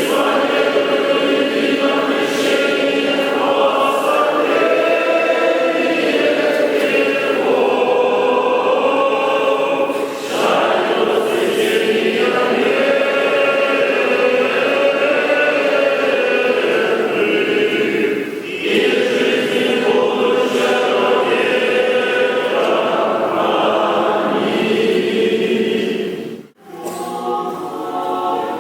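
Orthodox church choir singing a hymn unaccompanied, in long sustained phrases with short breaks between them and a brief drop-out near the end before a new phrase begins.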